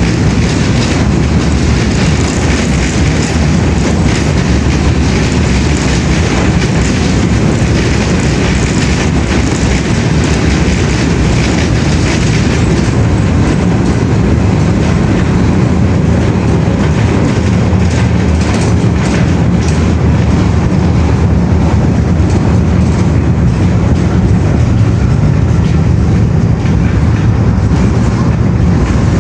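Steady loud rumble of a moving train, with a running rattle of short clicks over it.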